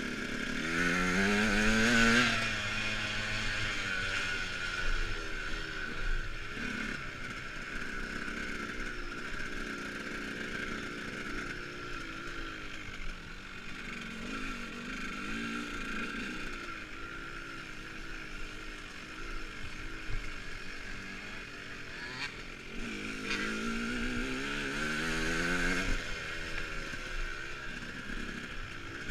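Dirt bike engine running and revving, rising and falling in pitch, with a strong rising rev about two seconds in and another building near the end.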